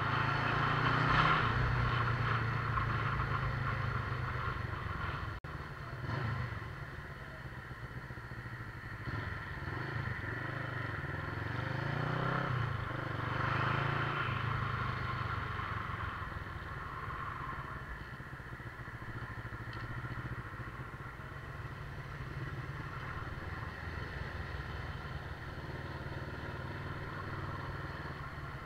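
Motorcycle engine running during a ride, louder for the first five seconds, then settling to a steadier, lower drone.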